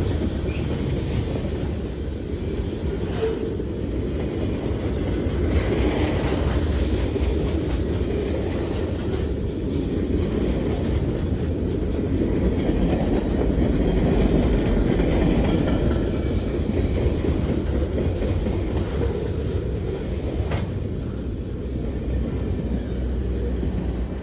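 Freight cars of a CSX train rolling past close by: a steady rumble of steel wheels on rail, with occasional clanks.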